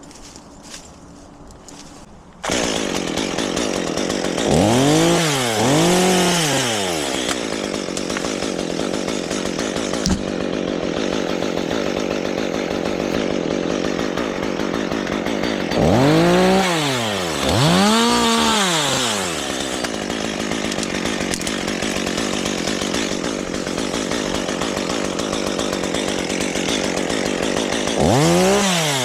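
Chainsaw starts up about two seconds in and keeps running. The engine is revved up and let back down twice a few seconds later, twice around the middle and once more near the end.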